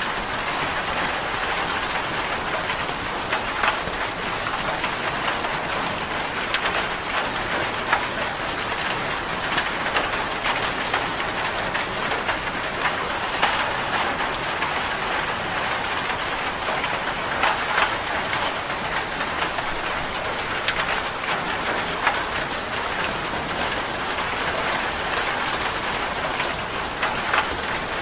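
Steady rain, an even hiss with scattered sharper ticks every second or so.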